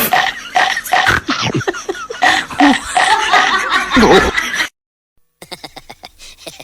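Loud laughter in quick repeated bursts, cutting off suddenly about four and a half seconds in, followed after a brief silence by quieter sounds.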